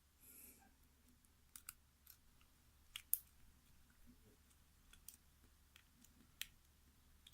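Faint, irregular metallic clicks of a lock pick and tension wrench working the pins of a mortise cylinder, about a dozen light ticks as pins are lifted and set.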